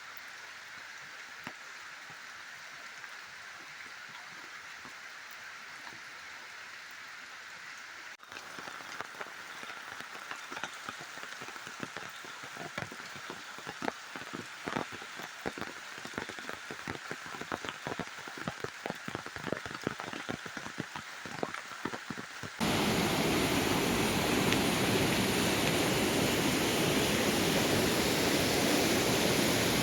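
Heavy rain falling: a steady hiss, joined about eight seconds in by many separate drop strikes close by. About two-thirds of the way through it cuts suddenly to a louder, even rush of water.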